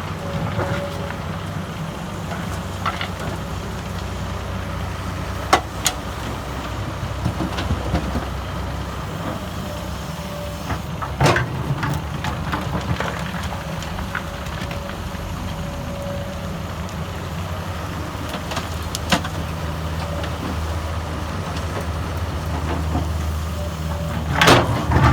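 Excavator's diesel engine running steadily under working load, with a few sharp knocks and clanks from the bucket and machine as it digs and loads soil, the last ones clustered near the end.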